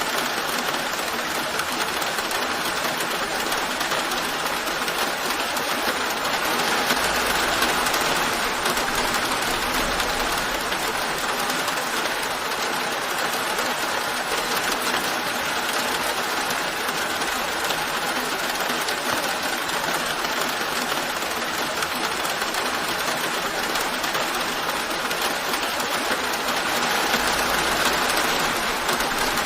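Steady rain falling in a dense, even hiss, swelling slightly twice.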